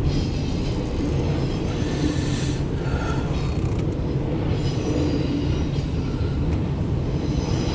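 CSX intermodal freight train rolling past, a steady rumble of wheels on the rails with faint high ringing tones that come and go.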